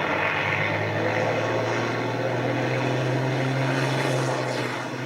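Race trucks' diesel engines running hard on track, a steady low engine drone.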